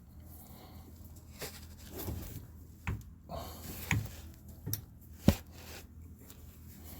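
Scattered sharp metallic clicks and knocks from hand tools as the lower strut bolt is torqued, about four of them, the loudest a single sharp click about five seconds in, over a low hum.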